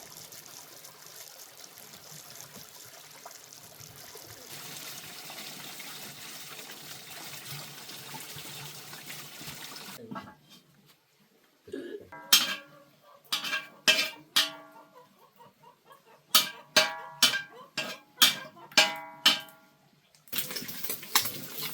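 Water running or trickling for the first half, then after a short pause about a dozen sharp ringing clinks, like dishes or pots knocking against each other. The running sound returns near the end.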